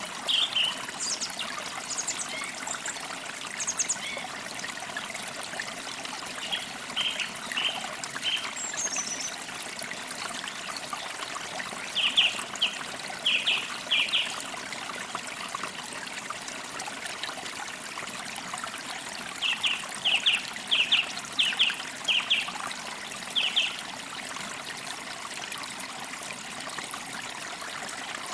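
A stream trickling steadily, with songbirds calling over it: a few short high chirps in the first seconds, a run of three loud notes about twelve seconds in, and a run of about six notes around twenty seconds in.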